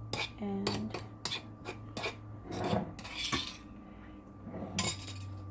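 A metal spoon clinking and scraping against a bowl as crushed ginger and garlic go into the yogurt marinade: a series of separate taps, with a longer stretch of scraping in the middle.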